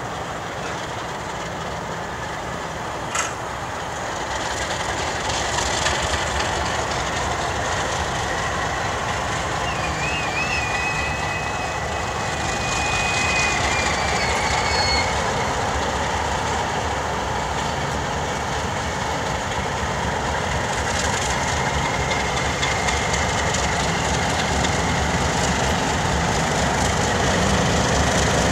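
Arkansas and Missouri Railroad train rolling along the rails with a steady rumble. A single sharp click comes about three seconds in. A thin, wavering high squeal runs for about five seconds starting about a third of the way through.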